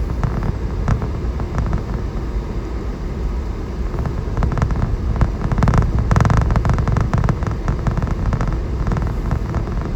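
Four-wheel-drive vehicle driving on a snow-covered road: a steady low rumble of tyres and engine with frequent crackling and popping as the tyres crunch over snow and ice, busiest about halfway through.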